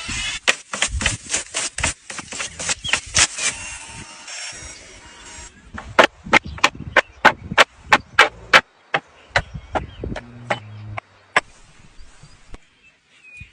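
Runs of sharp, evenly spaced knocks, roughly three a second, like wood or tool strikes. They fade to fainter, sparser knocks near the end.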